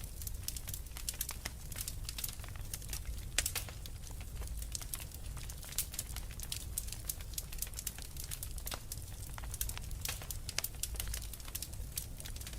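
Wood fire crackling, with many sharp, irregular pops over a steady low rumble.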